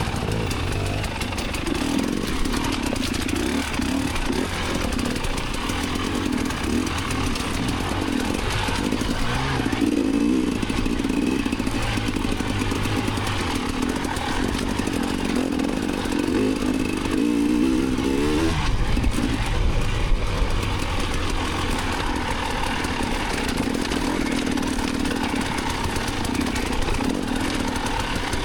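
Off-road dirt bike engine running and revving under a rider, the note rising and falling with the throttle. There is a quick rise and fall in pitch about seventeen seconds in.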